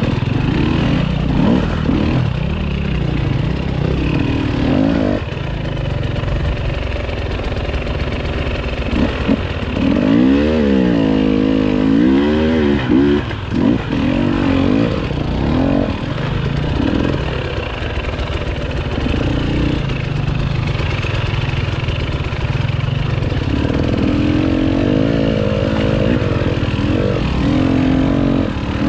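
Enduro dirt-bike engine running under changing throttle on a trail, its pitch rising and falling again and again as it revs and backs off.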